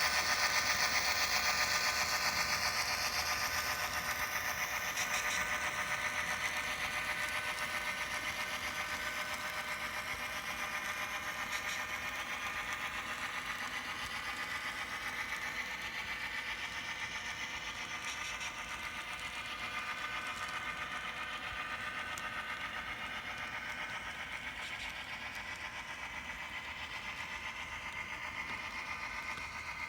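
N scale model train running on the layout: the locomotive's small electric motor and gearing whine steadily along with the rattle of wheels on the rails, the pitch drifting slowly lower and the sound getting slightly quieter over time.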